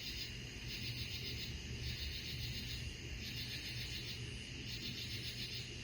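Night insects chirping in repeated pulsed bursts, a group a little under a second long every second or so, over a low steady rumble.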